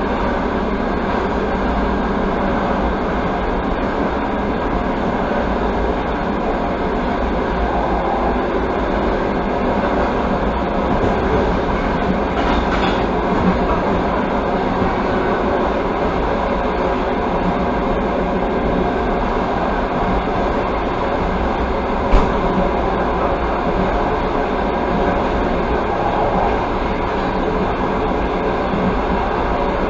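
Steady noise of a passenger train running along the track, wheels on rails heard from inside the carriage, with one sharp knock about two-thirds of the way through.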